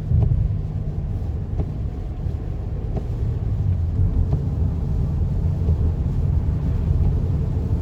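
Steady low rumble of a car driving, heard from inside the cabin: road and engine noise from the moving car.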